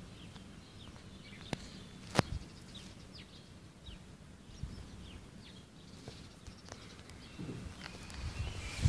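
Outdoor ambience with small birds chirping now and then in short, high, falling notes. Two sharp clicks come about a second and a half and two seconds in, and a few low thuds near the end.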